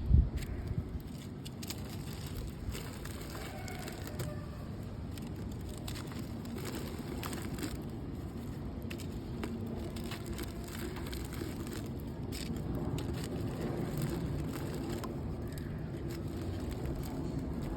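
Wet, gritty red mud being crumbled in water: irregular crunching and crackling, loudest in a short burst at the very start.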